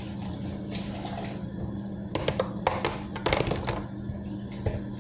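Kitchen utensils clattering: a quick run of sharp clinks and knocks from about two seconds in, with one more near the end, over a steady low hum.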